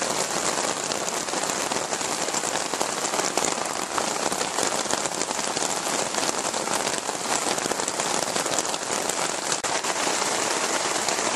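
Heavy rain pouring down: a steady, dense hiss of countless raindrops striking surfaces.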